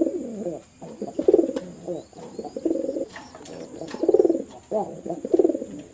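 Domestic pigeons cooing, a coo every second or so, with the calls of more than one bird overlapping.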